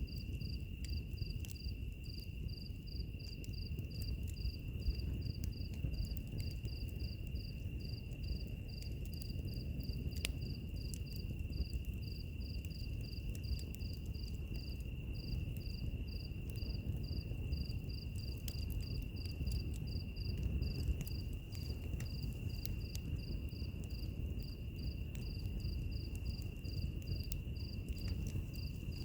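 Crickets chirping: one steady high trill, with a second higher chirp repeating about twice a second. Under them is the low rumble of a wood fire, with scattered small crackles and pops.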